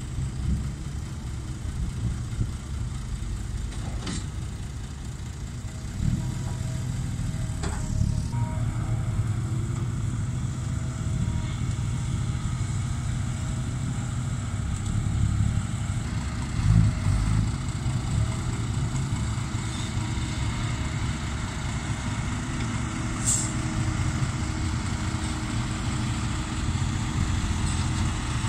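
Diesel engine of a six-wheel dump truck running steadily at the pit, with a couple of faint knocks and a brief high hiss about three quarters of the way through.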